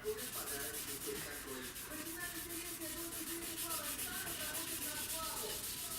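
Hand scuffing of a car body panel with an abrasive pad: a steady run of rapid, even back-and-forth rubbing strokes as the surface is keyed for primer.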